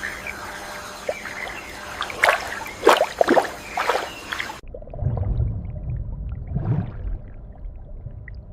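Water splashing and gurgling, with a few sharp splashes in the first half; about halfway through the sound cuts abruptly to a muffled, low rumbling gurgle.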